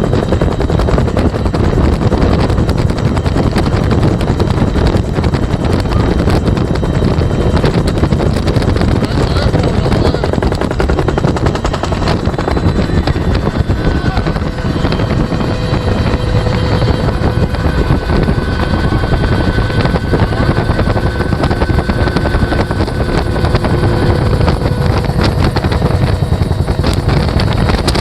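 Bell UH-1 Huey helicopter in flight, heard from inside the cabin: its two-bladed main rotor beats in a rapid, even thump over the steady rush of the turbine engine and airflow, loud and unbroken.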